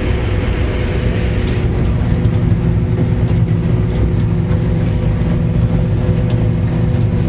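Farm tractor engine running steadily at a constant pitch.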